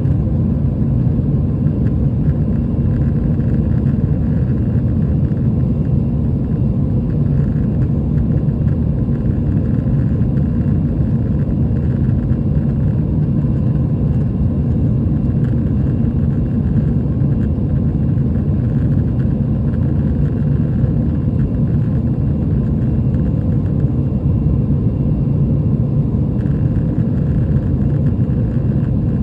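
Airbus A320 passenger cabin noise in flight, a steady low rumble of jet engines and airflow with a faint steady tone above it.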